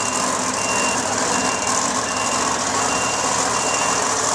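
Vehicle backup alarm beeping in an even rhythm, a little faster than once a second, over steady engine and arena noise.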